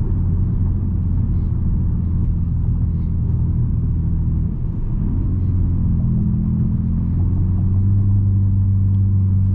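Straight-piped 2020 Nissan Altima's exhaust giving a steady low drone while driving, with a brief dip and change in pitch about halfway through before it settles again.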